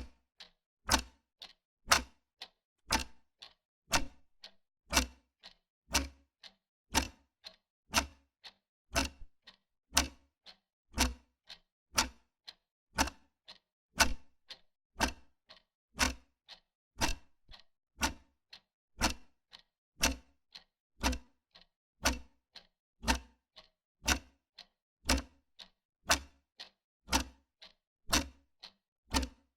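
Wall clock ticking steadily, about two ticks a second, alternating a louder tick and a softer tock.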